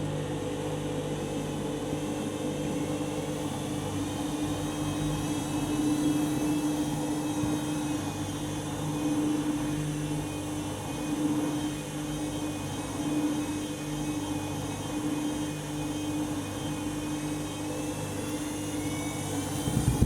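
Candy front-loading washing machine running in its drain-and-spin stage after the main wash: a steady motor and drain pump hum that swells and eases every few seconds. The drum is packed with suds from overdosed detergent, which the owner expects to trigger a suds lock.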